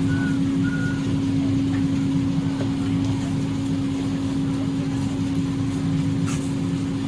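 Tour boat's engine idling with a steady hum and low rumble. A couple of faint short chirps in the first second.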